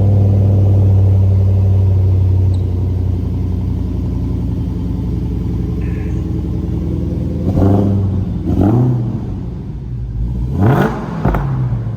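Car engine idling at a fast cold-start idle, settling slightly after a couple of seconds, then revved in four short throttle blips over the last few seconds.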